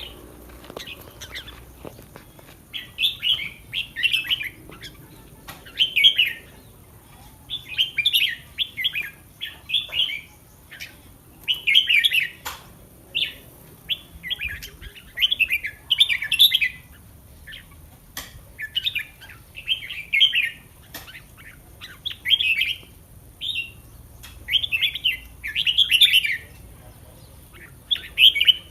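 Red-whiskered bulbul singing: short, bright warbled phrases repeated every second or two with brief pauses between them.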